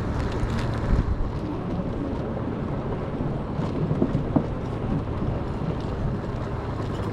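Wind buffeting a body-mounted action camera's microphone during an e-bike ride, a steady low rumble with a few short knocks about a second in and around four seconds.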